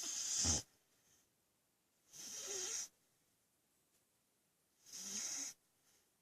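Sleeping dog snoring: three short, hissy snoring breaths, about two and a half seconds apart.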